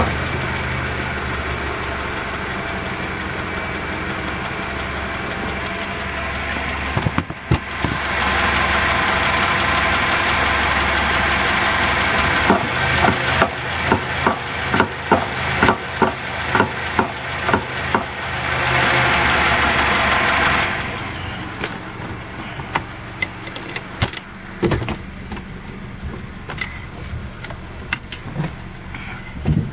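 Car running, with repeated sharp knocks from a failing Raceland coilover strut clunking. Louder road noise comes in from about eight seconds to about twenty-one seconds in, and the knocks go on after it drops.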